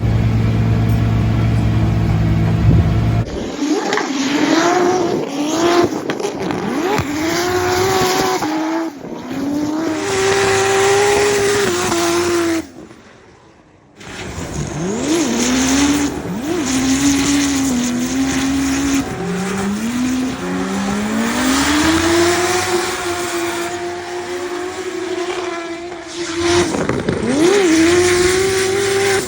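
Nissan S13's RB30 straight-six engine revving up and down hard while drifting, with tyre squeal over it. A low steady rumble opens it, and the sound drops away briefly about halfway through before the revving resumes.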